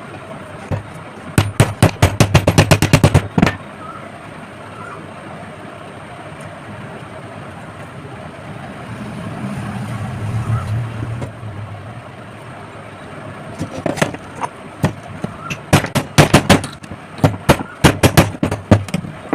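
Rapid runs of hammer blows on metal, about seven sharp knocks a second, in two bursts, typical of tapping a bearing off or onto an exhaust-fan motor's shaft. A brief low hum comes in between them.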